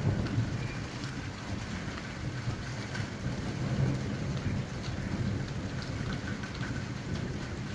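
Heavy rain pouring steadily during a thunderstorm, with a low rumble underneath and faint scattered ticks.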